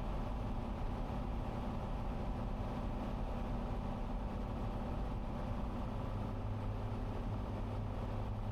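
Cessna 182 Skylane's piston engine and propeller drone steadily on final approach. A low hum grows stronger about six seconds in.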